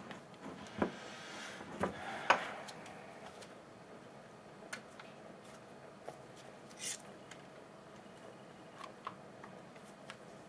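Scattered clicks, taps and a brief scrape of small hedge-trimmer parts being handled and fitted by hand, the loudest knock a little over two seconds in, with a short hiss near seven seconds.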